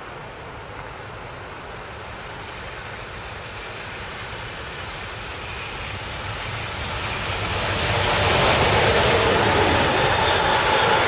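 Train approaching along the line, its running noise growing steadily louder over about eight seconds, then holding at full volume as it draws level.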